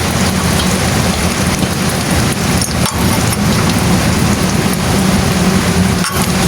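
Rain falling steadily, with a steady engine hum underneath.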